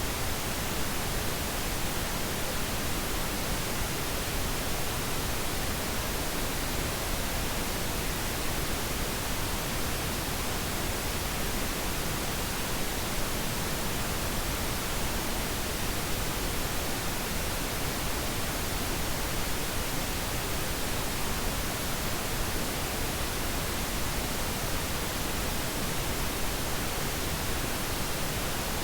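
Synthetic pink noise: a steady, even hiss spread across the whole range of pitch, with no changes, played as a sleep aid.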